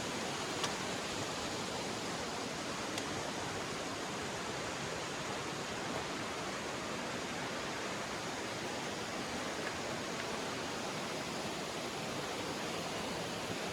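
Steady rushing of a river, an even wash of water noise with no let-up. A couple of faint sharp clicks stand out, near the start and about three seconds in.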